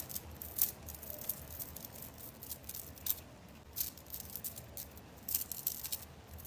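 Faint, scattered clicks and light rattling, a few sharper ticks about half a second in and again around three and five seconds in.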